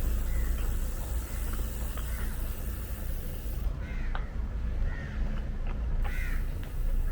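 A bird calling repeatedly in short, arched calls, a few close together near the end, over a steady low rumble.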